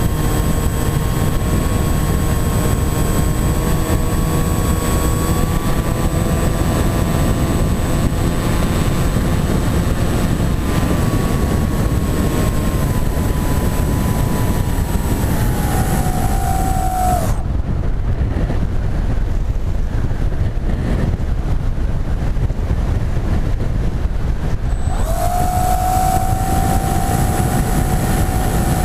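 Onboard sound of a Wing-X EPP flying-wing model aircraft in flight: the motor and propeller whine over heavy wind rush on the microphone. The whine drops in pitch and cuts out about halfway through as the throttle is closed and the wing glides on wind noise alone. It comes back about eight seconds later when power is reapplied.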